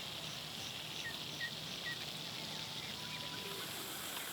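Rural outdoor ambience with a steady high insect drone and a few short, faint chirps in the first couple of seconds.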